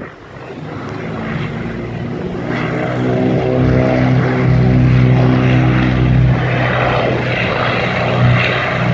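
Propeller engine of a seaplane approaching, growing louder over the first few seconds into a steady droning hum; after about six seconds the hum gives way to a broader rushing noise.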